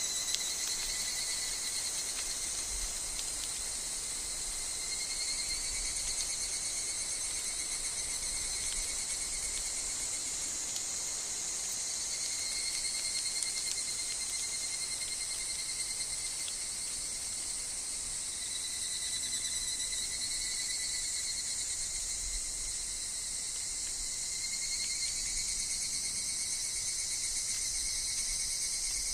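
Higurashi (evening cicadas) calling in woodland: a steady, high, shrill insect chorus, with trilled calls that swell and fade in stretches of a few seconds. Faint low rumbles of wind come and go beneath.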